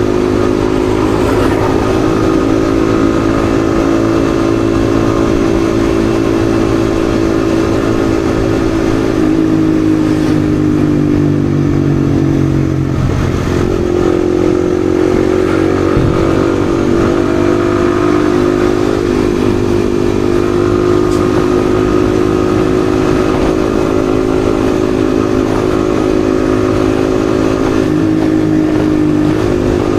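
Yamaha XSR155's single-cylinder engine running steadily under way. Its pitch sinks a little about halfway through, comes back up, and dips briefly again near the end.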